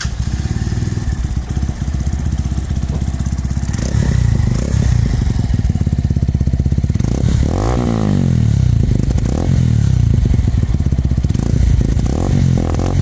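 Brixton Klassik motorcycle engine running loud through its stock exhaust with the internal silencer cut out and the air filter removed, given a few throttle blips, the biggest rev about eight seconds in.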